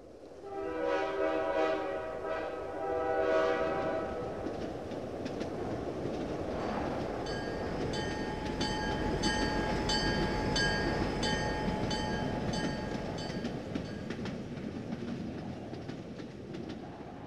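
A train whistle sounds a chord of several tones a few times over a steady train rumble. From about seven seconds a rhythmic metallic ringing joins the rumble, which fades toward the end.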